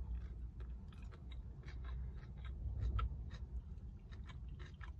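A mouthful of sushi roll being chewed close to the microphone: a string of short, wet mouth clicks and smacks over a low, steady rumble.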